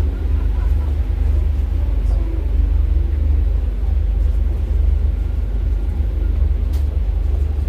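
Inside a Paris Métro Line 4 rubber-tyred train running between stations: a steady, loud low rumble.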